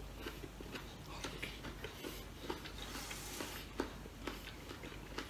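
A person chewing a mouthful of mango slice: faint, repeated small crunches and mouth clicks, several a second.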